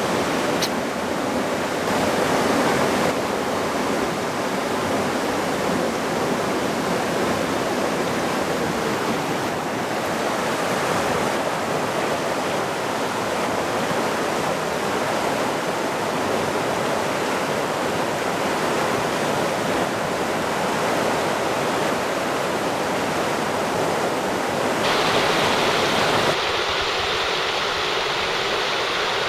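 Mountain stream water rushing, a steady rush that changes abruptly in tone a few times, near the start and twice near the end.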